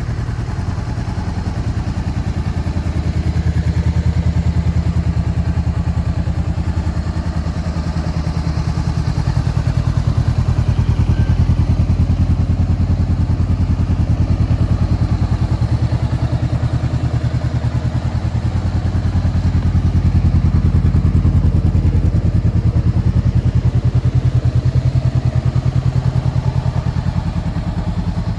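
Honda CB500's parallel-twin engine running at a steady low speed, its level swelling gently a few times.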